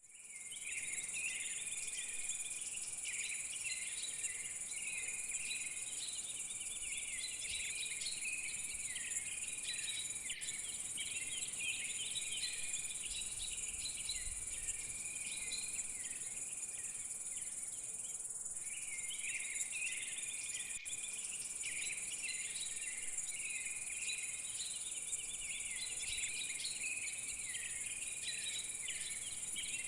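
Insect chorus: a steady, high-pitched cricket-like trill, with repeated warbling chirps at a lower pitch over it that break off briefly a little past halfway.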